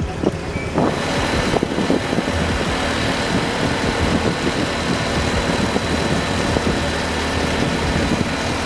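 A heavy vehicle's engine running steadily under a dense, even rushing noise.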